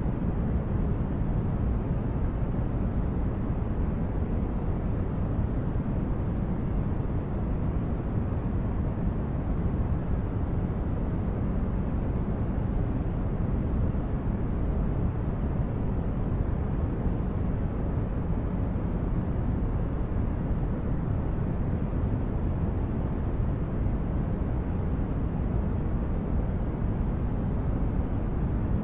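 Synthesized spaceship ambience: a steady low rumble of brown-noise-like hiss, deep and even, with no distinct events.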